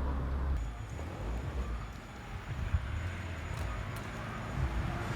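Low, uneven rumble of a vehicle engine with traffic noise; the sound changes abruptly under a second in.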